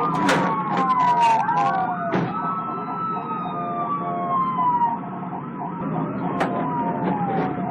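Police car sirens wailing, more than one at once, their pitch sliding slowly up and down so the tones overlap and cross.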